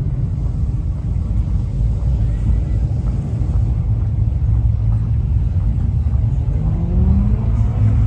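A car engine running with a steady low rumble, its revs rising in a smooth upward glide near the end as it pulls away.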